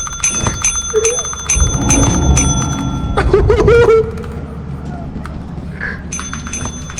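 A small metal bell hit over and over in quick succession, about two to three dings a second, each ring lasting until the next strike. The ringing stops about three seconds in and starts again near the end. A short high yelp falls in the gap.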